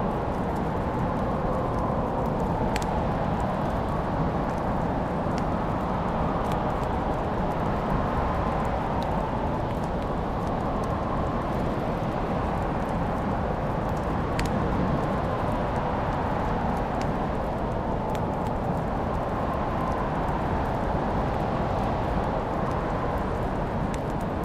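Wood fire crackling: a steady rushing hiss with scattered sharp pops and snaps every second or two.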